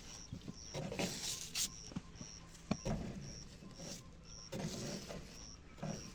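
Young birds' high chirps repeating about twice a second, over rustling and bumping as the nest is handled, with one sharp knock near the middle.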